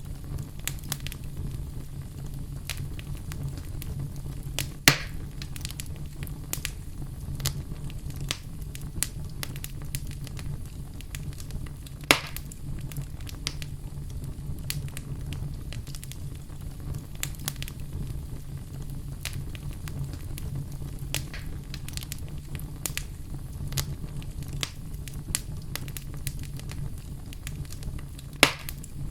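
Fire burning in a fireplace: a steady low rumble with frequent small crackles, and three louder sharp pops spread through, about five, twelve and twenty-eight seconds in.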